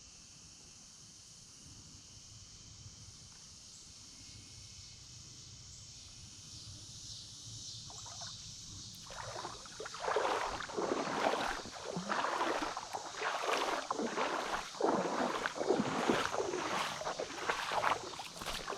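Splashing, sloshing steps of someone wading through a shallow creek, starting about nine seconds in and going on irregularly. Before that there is only a faint steady outdoor background.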